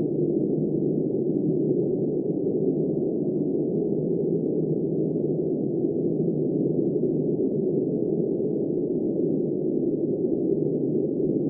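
Snowstorm wind blowing steadily, a deep, muffled rushing with no gusts, breaks or sharper sounds.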